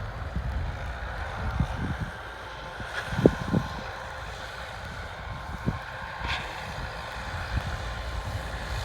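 Massey Ferguson 274S tractor's diesel engine running steadily while driving a PZ drum mower, with a few short low thumps.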